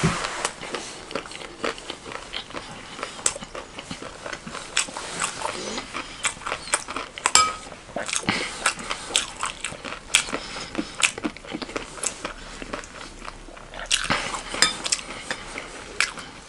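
Crunchy chewing of chatpatey, a crisp Nepali puffed-rice snack, with irregular crackles and clicks throughout. A metal spoon scrapes and clinks in a glass bowl as more is scooped up.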